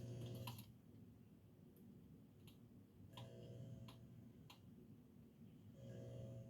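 Faint clicks from a ceiling fan's variable speed control being worked, with three short spells of low electrical hum as the circuit is briefly energised.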